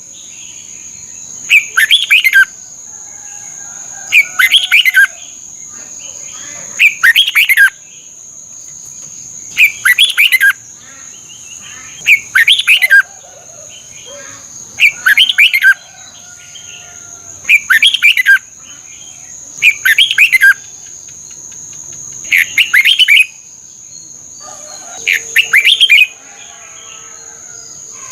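Red-whiskered bulbul singing the same short phrase of quick notes over and over, about once every two and a half seconds. Each note falls in pitch, and a steady high tone runs underneath.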